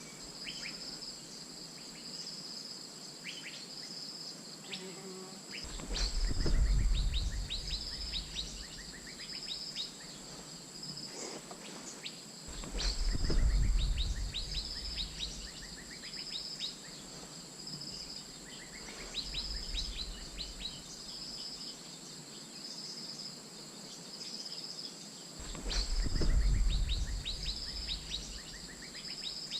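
Asian fairy-bluebird calls, clusters of quick sharp notes, over a steady high insect buzz with regular pulsing. Three times a low rumble swells up and is the loudest sound.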